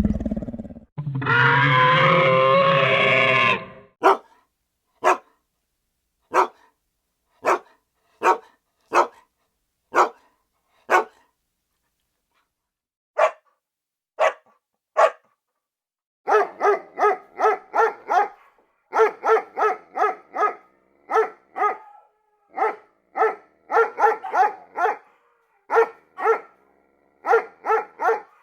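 Dog barking sound effects. A rough growl comes first, then single sharp barks about once a second, and about halfway through rapid runs of higher barks.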